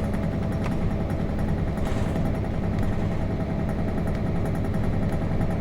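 Nissan Diesel KC-RM211GSN bus's FE6 diesel engine running at a steady speed, heard from inside the bus cabin.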